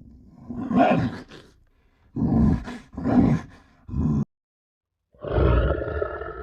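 An animal roaring: four short roars close together, then a pause and a longer roar that fades away.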